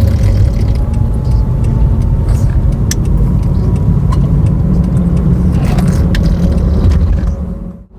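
Steady low rumble of road and engine noise inside a moving car, with a few faint clicks and rattles, dropping away abruptly near the end.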